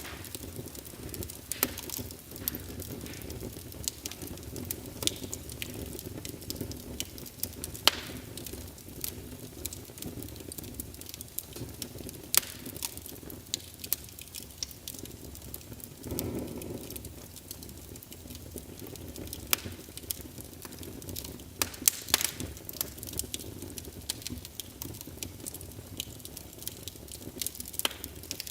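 Wood logs burning in a fireplace: irregular crackling and sharp pops over a steady low rumble of the flames, with a short swell of flame noise a little past halfway.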